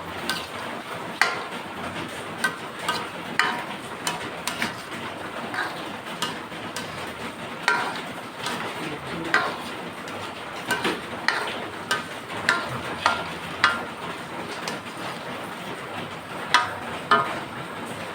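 Irregular clinks and knocks of cooking utensils against a metal pot, some with a short metallic ring, over a steady hiss.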